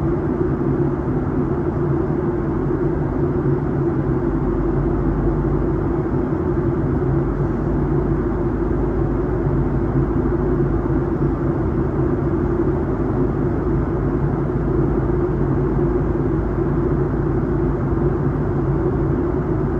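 Steady drone of an airliner in flight, engines and airflow, with a few steady hum tones over it; a deeper low rumble comes in about four seconds in.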